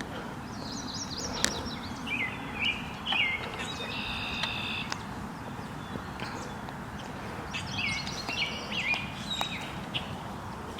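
Songbird singing quick, chirping phrases in two bouts, the second beginning about halfway through, over a steady low outdoor background noise.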